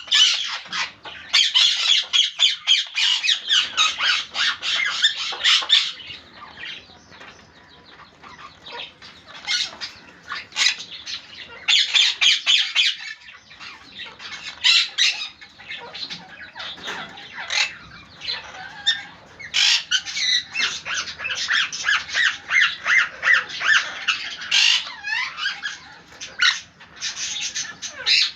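A pair of parrots squawking and screeching as they play, in several loud bouts of rapid, harsh calls separated by quieter stretches.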